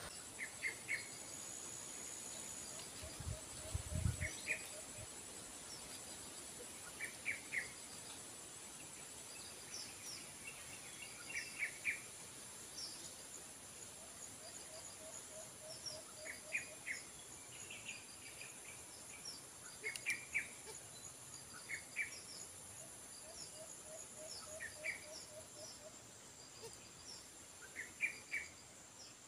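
Small birds chirping in short, sharp clusters of two or three notes every couple of seconds, now and then with a quick run of lower pulsing notes, over a steady high insect buzz that drops away near the end.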